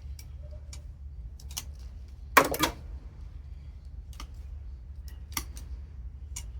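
Scattered metallic clicks and taps of tools and parts being handled while a continuous hot water heater is taken apart, with one louder clatter a little past two seconds in.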